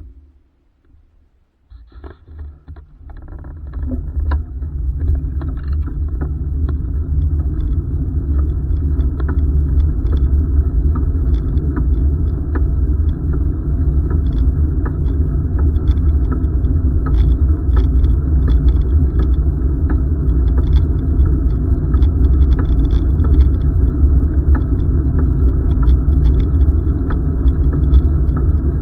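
Low rumble from wind on the microphone and a bicycle rolling along the trail. It builds up over a couple of seconds as the bike gets going, then holds steady, with scattered small clicks and rattles from the bike.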